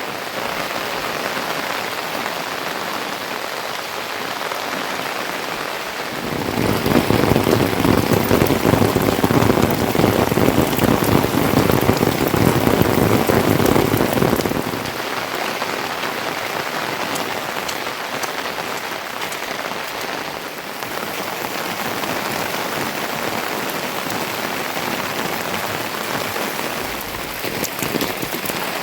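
Steady rain falling, growing heavier and louder for about eight seconds in the middle before easing back.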